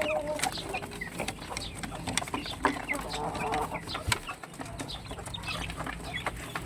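Backyard chickens clucking, with scattered short calls and many short sharp ticks and taps.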